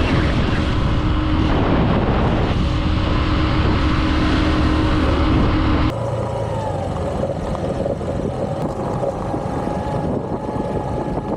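Honda XR150 single-cylinder motorcycle running steadily on the road. About halfway through the sound changes abruptly to a quieter steady drone.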